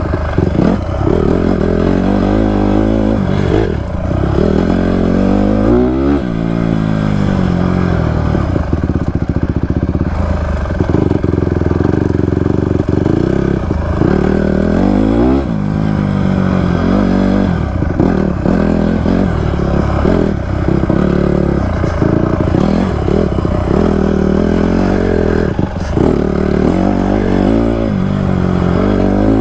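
Honda CRF150R motocross bike's single-cylinder four-stroke engine being ridden, revving up and falling back over and over as the throttle is opened and closed. Its power comes in sharply with each twist of the throttle.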